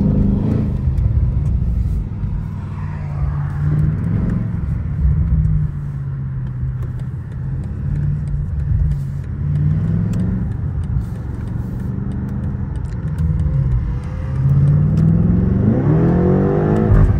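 BMW M8 Competition's 4.4-litre twin-turbo V8 heard from inside the cabin while driving, its note rising and falling with the throttle. A long climb in pitch near the end as it accelerates hard.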